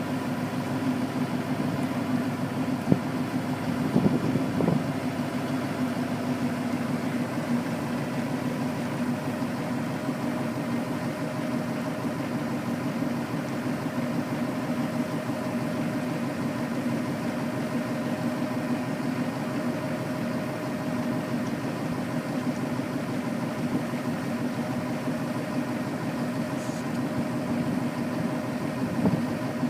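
Truck engine idling steadily, with a few short knocks about three to five seconds in.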